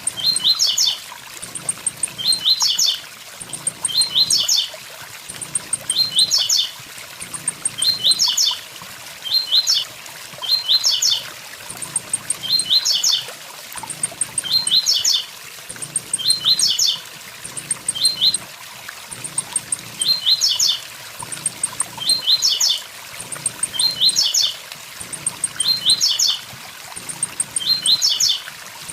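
Blue-black grassquit (tiziu) repeating its short song phrase of a few quick high notes about every two seconds, over the steady rush of a waterfall.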